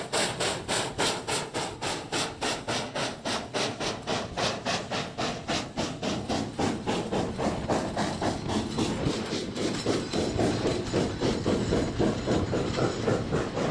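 Steam locomotive working hard on a run-by, with a steady rapid beat of exhaust chuffs about four a second. In the second half the beats blur together and grow louder as the train's rolling noise joins in.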